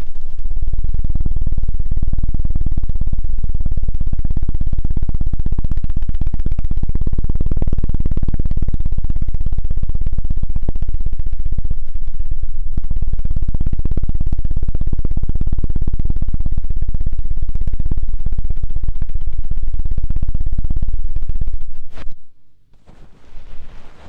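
ASMR 'helicopter' ear-cleaning trigger: rapid, very close flapping thumps on the microphone, a deep and loud fast flutter like helicopter blades. It stops abruptly about 22 seconds in, followed by a brief softer rustle near the end.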